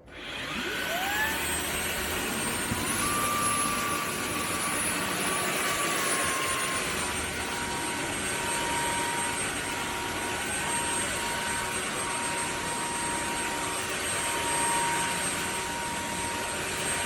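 Dreame H12 Pro wet-dry vacuum's motor spinning up with a rising whine, then running steadily with a rushing hiss. Its pitch steps up about three seconds in and settles back down a few seconds later.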